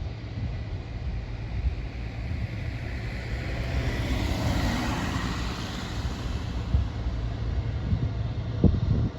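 Wind buffeting the microphone with a steady low rumble, while a rushing noise swells to a peak about halfway through and fades again, as something passes; a single thump near the end.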